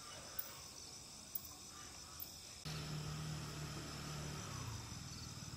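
Crickets chirring steadily in a high, even drone. A low hum comes in suddenly about halfway through and fades out near the end.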